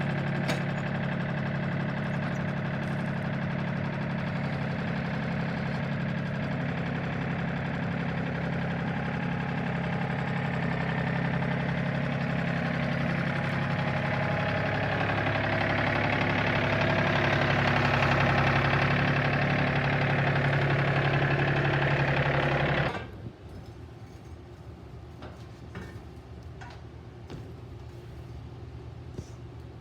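Farm tractor engine running steadily, growing louder in the second half as it works, then dropping sharply about 23 seconds in to a much quieter low hum.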